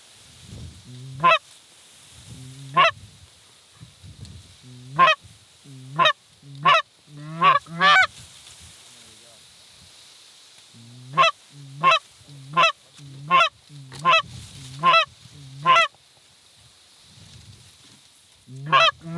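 Loud goose honks in two quick runs: about seven, then a pause of a few seconds, then about eight more. Each honk starts low and breaks sharply upward into a high, nasal note.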